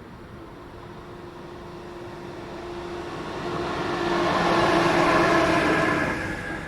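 A train passing close by, getting louder to a peak around five seconds in and dropping off near the end, with a steady whine of several tones over the rush of its running.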